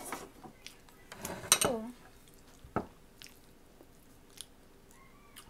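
Close-up eating sounds: a person chewing and smacking on shrimp and vegetables in coconut-milk sauce, eaten by hand. There are a few sharp clicks, the loudest about a second and a half in, and another near three seconds.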